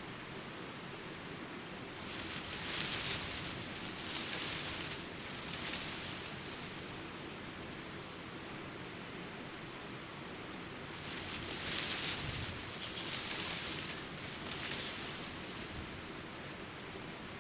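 Forest ambience: a steady high shrill of crickets, with two longer swells of rushing noise, a couple of seconds in and again about two thirds of the way through.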